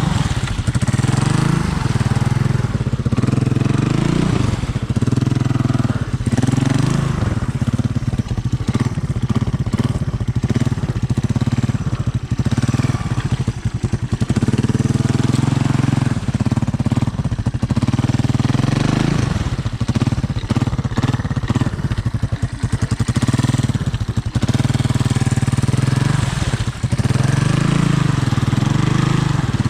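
Honda ATC 200M three-wheeler's single-cylinder four-stroke engine running under load, its note rising and falling repeatedly with the throttle.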